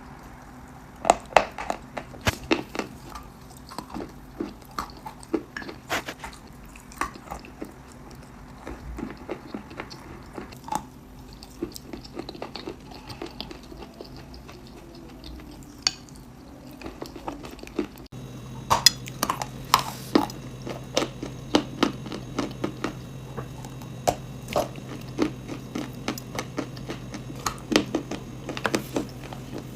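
Close-miked biting and chewing of hard, dry edible chalk and clay: irregular sharp crunches, often several a second. A steady low hum sits underneath and gets louder about two-thirds of the way through.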